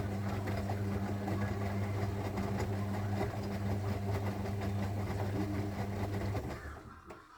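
Zanussi washing machine's drum motor running with a steady low hum, then winding down and stopping near the end.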